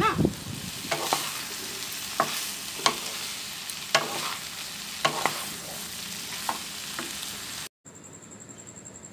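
Cauliflower and potato pieces sizzling as they fry in a pan, stirred with a spatula that knocks against the pan about eight times. Near the end the sound cuts off and returns as a quieter sizzle.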